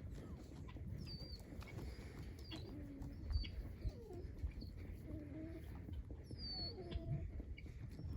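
Saanen doe giving several short, low, wavering calls to her newborn kid, with a few high bird chirps.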